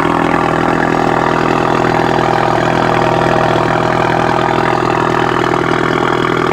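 Car engine and exhaust idling steadily at an even, unchanging pitch.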